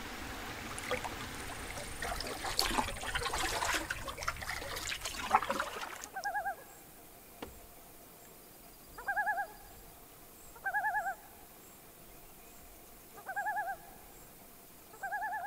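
A rustling noise with a few scattered knocks for about six seconds, then it goes quiet and a bird calls five times, each a short quavering call about half a second long, a second or a few seconds apart.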